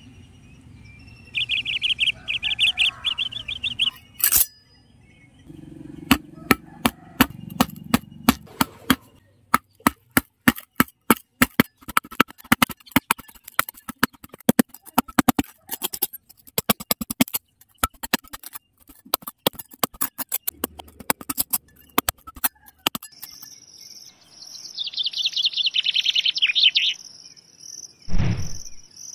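Metal scraper blade digging into dry, hard-packed soil: a fast run of sharp scrapes and knocks. Birds chirp near the start, a cricket trills near the end, and a low thump comes just before the end.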